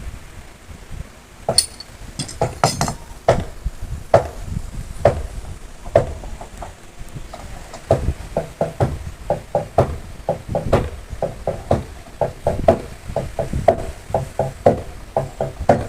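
Hammer blows on wooden boat planking: single strikes about a second apart at first, then a quick run of several strikes a second from about halfway on, each with a short ring.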